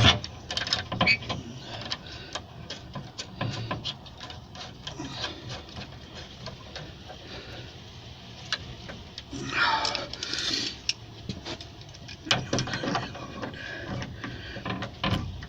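Hand tools and metal parts clicking, tapping and scraping as fittings and bolts are worked on, with a longer scraping rustle about ten seconds in.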